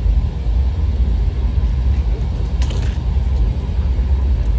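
Propane roofing torch burning with a steady low roar.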